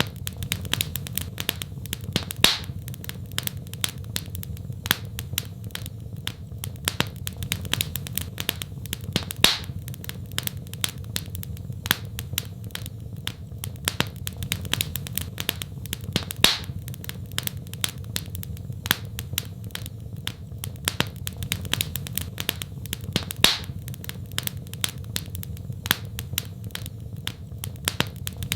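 Wood fire crackling: a constant patter of small snaps with a louder pop every few seconds, over a steady low rumble.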